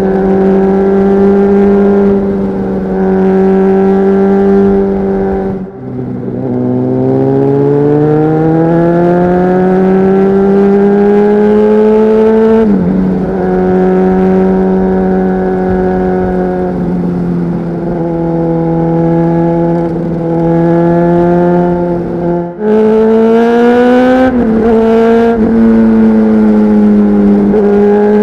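Honda CBR600RR inline-four engine running through a Leo Vince exhaust, heard on board while riding. It holds a steady high rev, drops suddenly about six seconds in, then climbs steadily in pitch for several seconds as the bike accelerates. A second brief dip and rise in pitch comes near the three-quarter mark.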